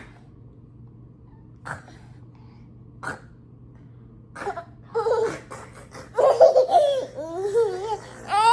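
A toddler laughing: a few short sounds in the first half, then loud, squealing laughter with swooping pitch from about halfway in.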